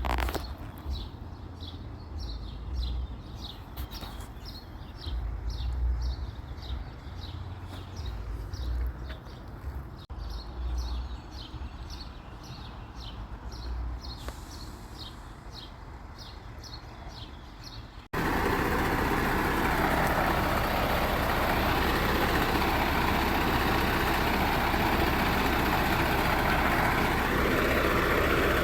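Birds chirping in short repeated notes over a low, gusty rumble; about two-thirds of the way through this cuts abruptly to a garbage truck's diesel engine running loud and steady.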